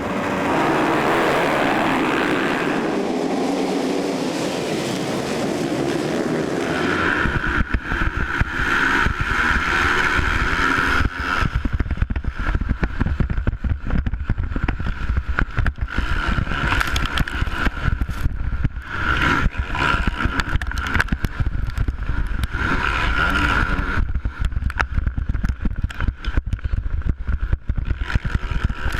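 Motocross motorcycle engines running at racing speed. The sound changes about seven seconds in to a rougher, rapidly pulsing engine note with a strong low end.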